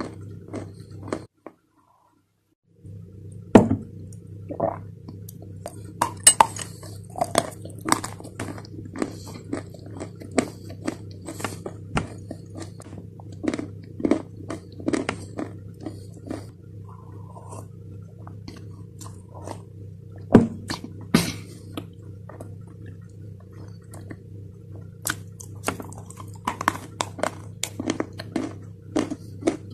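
Close-miked chewing of a dry white chalky chunk, with many sharp crackling crunches as it breaks between the teeth, over a steady low hum. The sound cuts out entirely for about a second and a half near the start.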